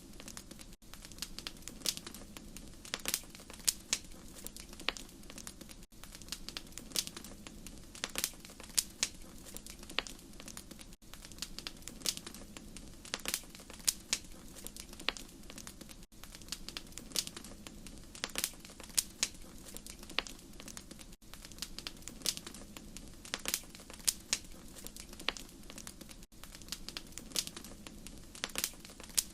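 Wood fire crackling: irregular sharp pops and snaps over a steady low rumble of burning. There is a brief dropout about every five seconds.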